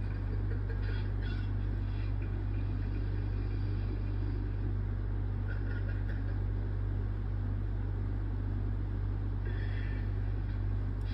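A steady low hum and rumble throughout, with a few faint, brief higher sounds now and then.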